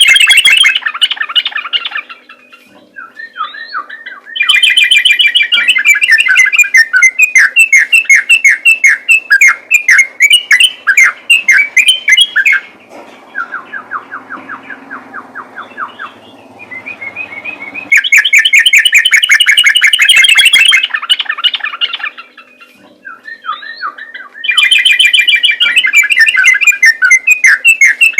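Yellow-vented bulbul singing loud, rapid strings of quickly repeated notes in long bouts, the fast 'ropel' song of a fired-up bird. Between about 13 and 18 seconds in, a quieter, even trill takes over before the loud song returns.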